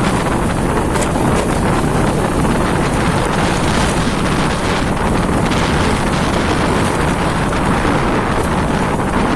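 Steady wind noise buffeting the microphone of a moving motorcycle, over the motorcycle's running engine.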